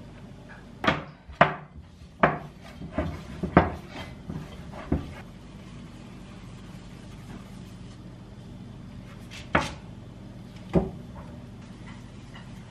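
Sharp knocks and clatters of kitchenware and wooden items being handled and set down: a quick run of about six in the first five seconds, then two single knocks near the end, over a steady low hum.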